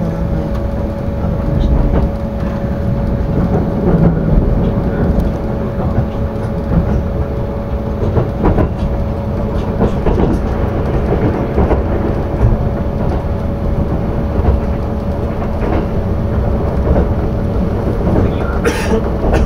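Cabin noise of a Kintetsu Vista Car limited express running at speed, heard from its upper deck: a steady low rumble of wheels on rail under a constant hum, with scattered short clicks. Near the end a brief hiss rises over it.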